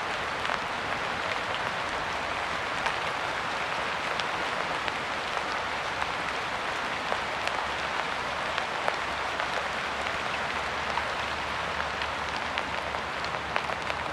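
Steady rain, a dense hiss with many distinct drops pattering close by.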